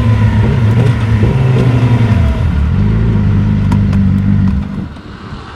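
2016 Yamaha R6's inline-four engine running at low revs: the pitch drops about two seconds in, settles into a steady idle, then the engine cuts off near the end.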